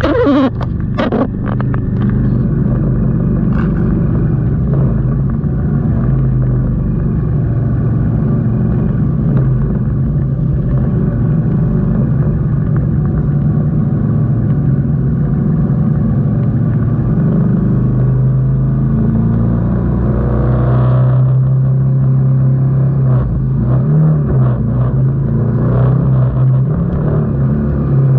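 Moto Guzzi V85TT's air-cooled V-twin engine running steadily at low speed and idle, with other motorcycles' engines mixed in.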